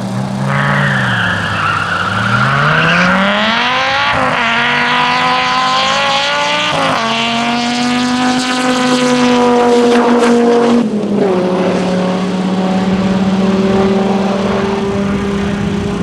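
Race car engine accelerating hard through the gears, its pitch climbing with two quick upshifts, then dropping suddenly as the throttle is lifted about eleven seconds in and running on at a steady lower note. A tyre squeal sounds over the first couple of seconds.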